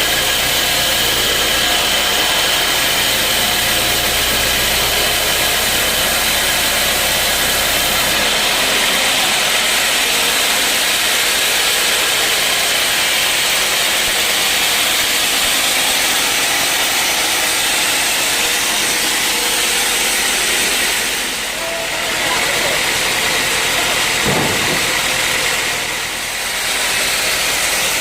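Sawmill saw cutting through a mahogany log: a loud, steady hissing noise of blade in wood with the machine running. A low hum underneath stops about eight seconds in, and the noise briefly dips twice near the end.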